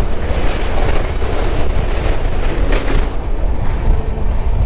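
Kanyakumari–Howrah Superfast Express running at speed: a loud, steady rumble of the coaches' wheels on the rails.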